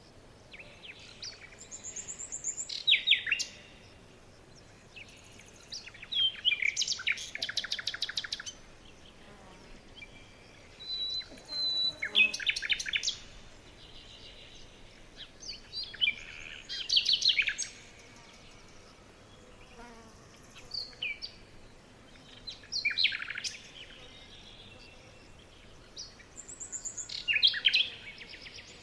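Songbirds singing: phrases of quick, high chirps and short trills that come every few seconds.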